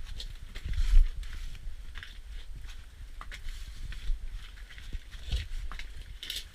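Irregular footsteps with small clicks and knocks over a low rumble, and one louder dull thump about a second in.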